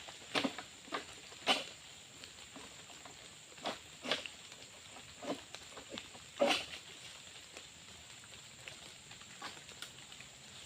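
Steady light rain hiss, with irregular sharp knocks and rustles every second or so, the loudest about six seconds in.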